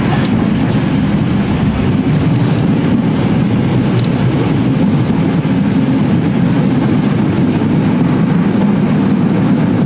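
Running noise heard from aboard a vintage Melbourne W2-class streetcar: a steady, loud low rumble of the car rolling along the rails.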